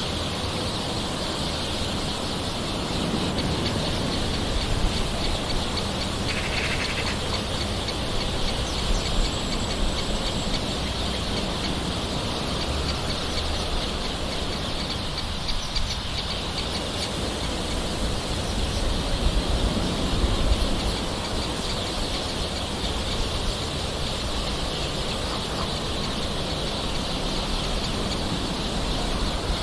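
Steady gentle rain with birds calling over it: a short call about six seconds in and a thin high whistle a few seconds later.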